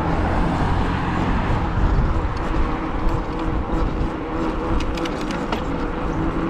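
Road and wind noise while riding an e-bike in traffic, with a motor vehicle's engine running steadily nearby and a few light clicks about five seconds in.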